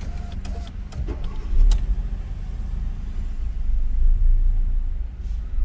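Hyundai i20's engine running steadily at idle, with a few sharp clicks in the first couple of seconds.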